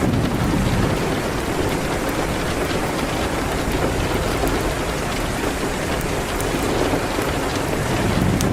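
Steady rain pattering on a window, an even wash of noise, with scattered faint crackles from a wood fire in a fireplace.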